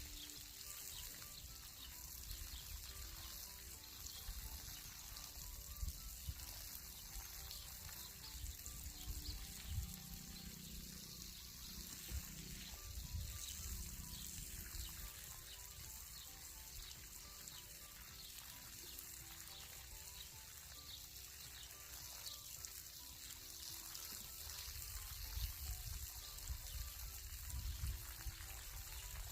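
Water from a hose or watering can pouring and spattering onto garden plants, with soft background music playing over it. Low gusts of wind rumble on the microphone in places.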